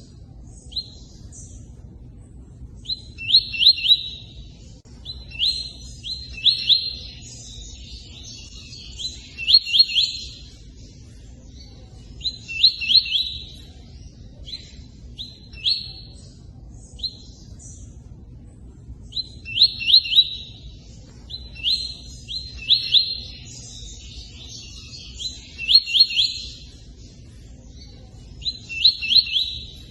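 Tui-tui song: short phrases of rapid, high, repeated chirps every two to three seconds, with gaps between them, over a steady low rush of running water.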